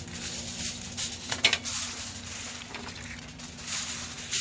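Aluminium foil being handled and crinkled, an irregular crackling rustle with a few sharper crinkles, the loudest just before the end.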